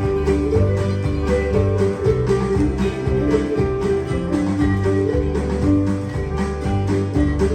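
Live acoustic gospel band playing an instrumental passage in country-bluegrass style: guitar strumming over a moving bass line at a steady beat.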